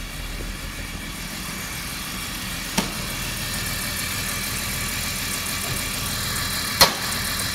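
BMW M54B25 2.5-litre straight-six running steadily at idle, an engine that is said to run unevenly. Two sharp clicks cut across it, one about three seconds in and a louder one near the end.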